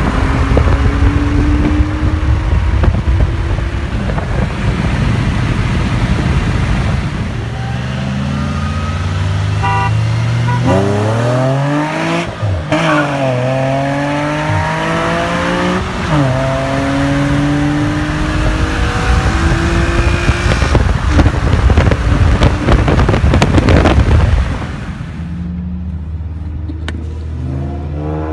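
Sports car engines accelerating hard with heavy wind and road noise, the pitch climbing and then dropping at gear shifts several times in the middle. A little before the end the loud noise cuts off, leaving a steady low engine hum.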